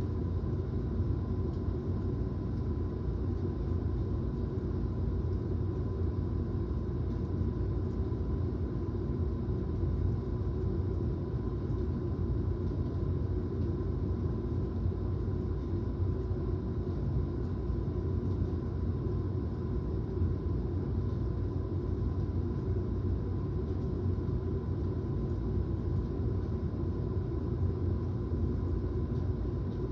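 Steady low rumbling ambience of a thunderstorm recording, with no distinct thunderclaps, and a faint steady high tone running underneath.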